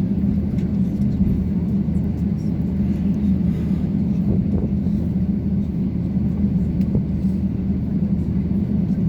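Steady low rumble of an Airbus A350-900's engines and airframe, heard from inside the passenger cabin.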